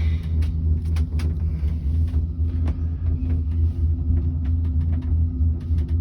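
Steady low rumble and mechanical hum of a Skyrail cable-car gondola travelling along its cable, heard from inside the cabin, with scattered light clicks and rattles.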